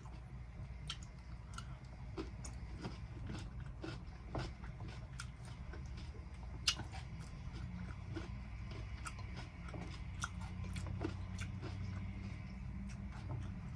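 Close-miked chewing of cucumber salad: irregular wet crunches and small clicks as raw cucumber is bitten and chewed, with one sharper crunch about halfway through, over a steady low hum.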